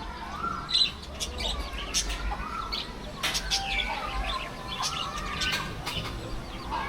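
Many birds chirping and calling at once: quick, sharp high chirps mixed with short, repeated rising-and-falling calls.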